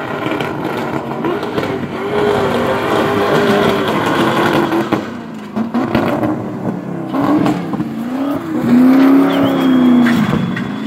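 Car engine revving hard while the car spins doughnuts, its pitch swinging up and down as the throttle is worked, over the hiss of tyres spinning on tarmac. Loudest about nine seconds in.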